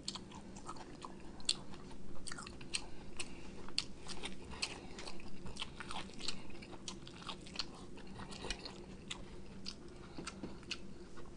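Close-up eating sounds of a person biting kernels off a corn on the cob and chewing: many short, crisp clicks and crunches at an irregular pace, fairly quiet.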